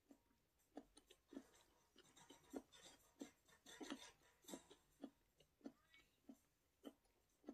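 Close-miked chewing of food: soft, wet mouth clicks and smacks, about one or two a second.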